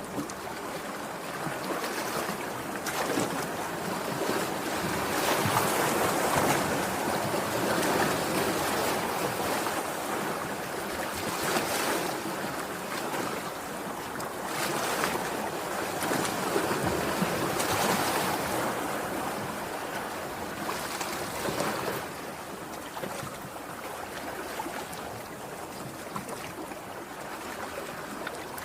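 Sea waves washing onto the shore, a continuous surf noise that swells and falls back, loudest in two long surges a few seconds in and again past the middle.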